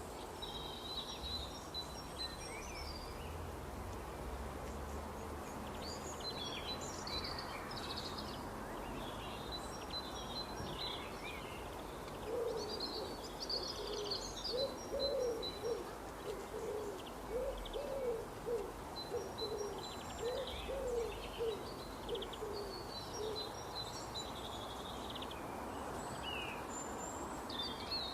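Small birds chirping over a steady background hiss, with a lower-pitched hooting call repeated about twice a second from about twelve seconds in until near twenty-three seconds.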